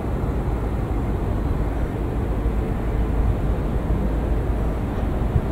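Steady low rumble of a train approaching along the tracks in the distance.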